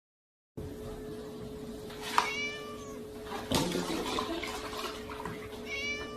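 A cat meows twice, a few seconds apart, each call falling in pitch, over a steady hum, with a knock between the two meows.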